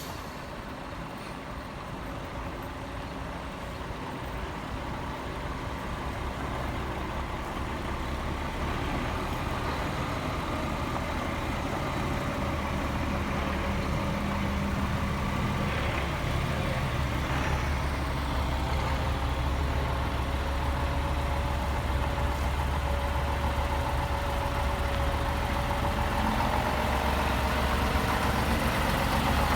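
Heavy truck diesel engine idling steadily, growing gradually louder.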